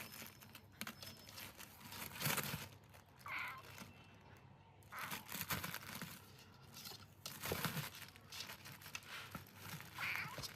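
Irregular rustling and crinkling. A faint short cry comes about three and a half seconds in and another near the end.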